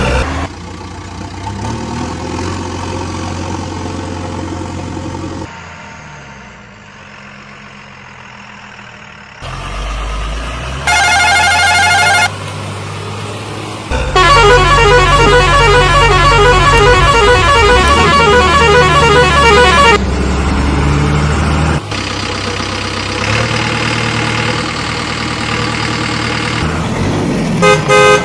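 Vehicle sound effects cut abruptly one into the next: heavy engines running, a steady horn blast about eleven seconds in lasting about a second, and a long, loud warbling horn for about six seconds starting near the middle.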